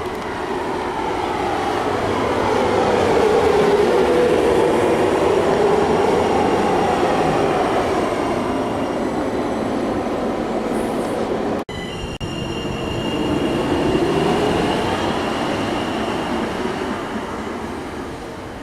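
A train running past on the track, the wheel and rail noise swelling and fading. Near two-thirds of the way through it breaks off suddenly, then a second pass swells up with a steady high whine over it.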